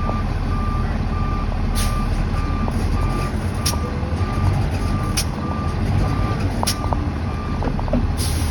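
A semi truck's reversing alarm beeping evenly, about one and a half beeps a second, over the low steady running of the truck's diesel engine; the beeping stops shortly before the end.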